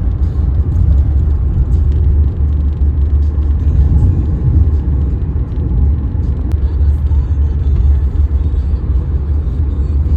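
Steady low rumble of a car driving, heard inside the cabin: engine and road noise. It cuts off abruptly at the end.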